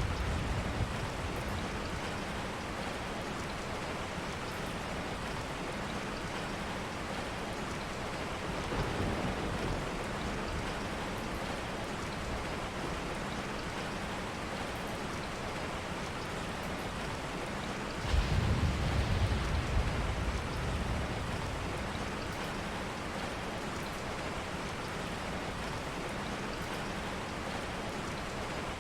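Steady rain falling, with a low rumble of thunder about two-thirds of the way through.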